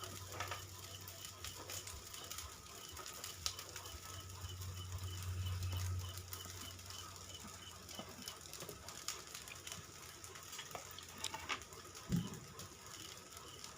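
Pasta being stirred in a frying pan: scattered faint clicks and scrapes of a spatula against the pan, over a low steady hum.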